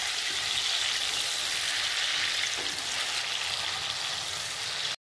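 Whole green grapes sizzling as they deep-fry in hot oil in a kadhai, a steady hiss that stops abruptly near the end.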